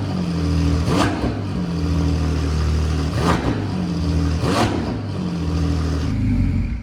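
Straight-piped Ferrari 296's twin-turbo V6 idling very loud, with three short sharp throttle blips, then the engine shuts off at the very end.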